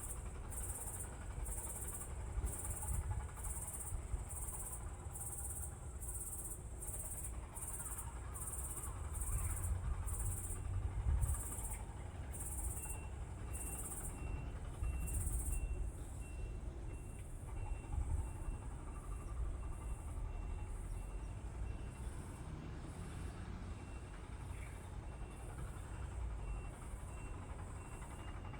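Insects chirping in a steady rhythm, about two high chirps a second, fading in the second half, with a second, lower pulsing call joining about halfway through. A constant low rumble lies underneath.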